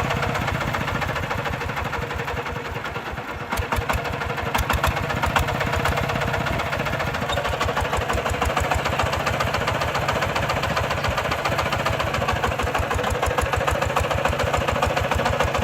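Single-cylinder diesel engine of a Kubota RT140 walking tractor running steadily with distinct, evenly spaced firing beats. It eases off a little about two seconds in and picks up again at about three and a half seconds.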